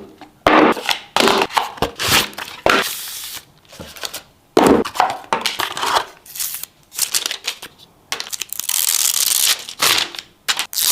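Hands unboxing a smartphone: plastic wrap and packaging crinkling and tearing, mixed with the scrapes and knocks of the box and its contents being handled, in an irregular run of rustles and clicks.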